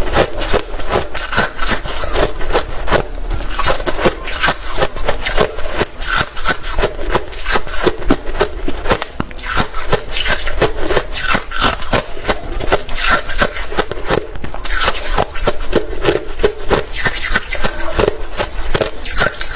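Close-miked chewing of hard refrozen crushed ice: a dense, continuous run of sharp crunches and cracks as the ice is bitten and ground between the teeth.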